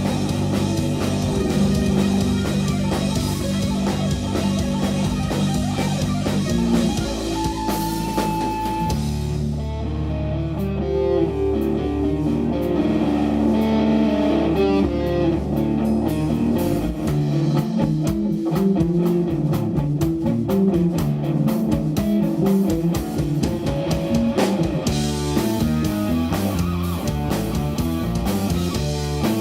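Live instrumental jazz-rock fusion from an electric guitar, bass and drums trio. About nine seconds in the cymbals thin out and the guitar plays over a long held bass note; the full band comes back in busy playing about seventeen seconds in.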